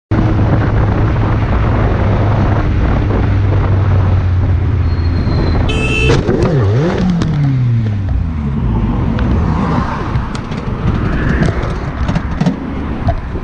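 Car on the road heard through a dashcam: steady engine and tyre noise. About six seconds in there is a brief high tone, followed by an engine pitch that falls and then rises again. A few short clicks come near the end.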